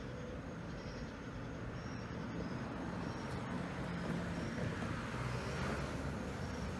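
Diesel freight locomotives running, a low engine rumble that grows slowly louder as the train draws nearer.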